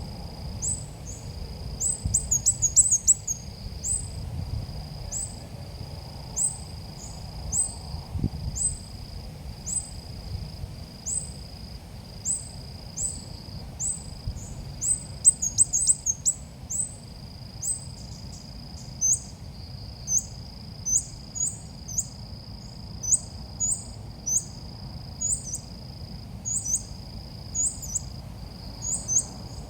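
Ốc mít bird calls played as a trapping lure: short, high chirps repeated about once or twice a second, with quicker bursts of several notes twice, over a steady high-pitched whine and a low background hum.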